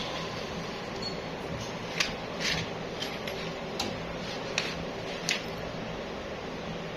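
A steady low hum with five light, sharp clicks or taps spread over a few seconds.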